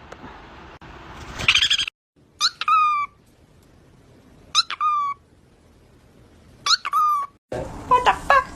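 A parrot calling: three short, near-identical calls about two seconds apart, each a sharp upward note that drops into a short held tone, then a few quicker calls near the end.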